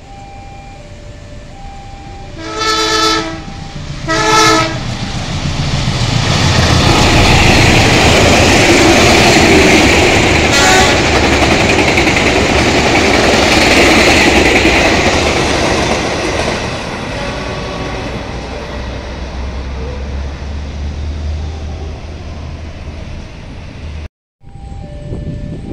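A KAI CC 201 diesel-electric locomotive sounds two short horn blasts as it approaches. It then passes close by, hauling passenger coaches, with a loud rush of engine and wheels on the rails that settles into a lower rumble as the coaches roll past.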